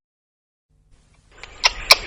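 Silence, then a hiss fades in just past halfway and two sharp clicks come near the end, the first of a steady series of clicks.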